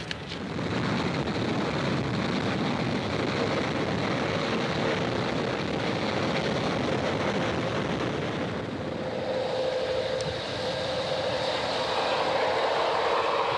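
A passenger train running past, with a steady rumble of wheels and cars. Near the end the sound grows louder, with a steady engine hum, as the train's lead EMD F9 cab-unit diesel works hard under heavy exhaust.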